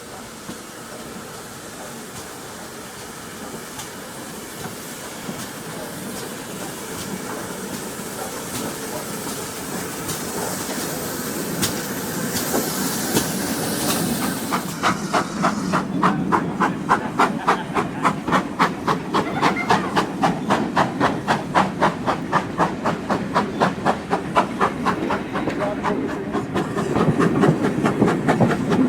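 Steam locomotive No. 9351, a GWR-type 2-6-0, working a train: a rising hiss of steam, then a steady exhaust beat of about four puffs a second from about halfway, growing louder.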